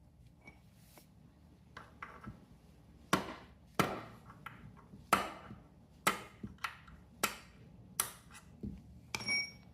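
A hammer tapping on metal about nine times, with sharp strikes roughly every half-second to a second and the last one ringing, knocking a pin out of the foot-peg mount.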